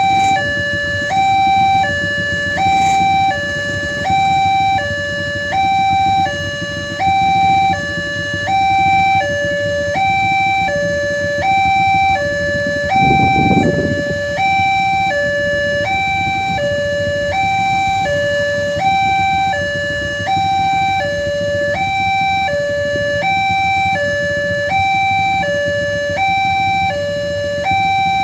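Railway level-crossing warning alarm sounding, two electronic tones alternating high and low and repeating about every second and a half, over a steady low rumble. A brief swell of low noise comes about 13 seconds in.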